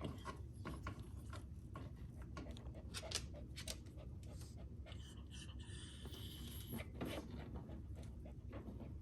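A dog moving about on a hard floor: irregular ticking and scraping of claws, with a short high-pitched sound about five seconds in.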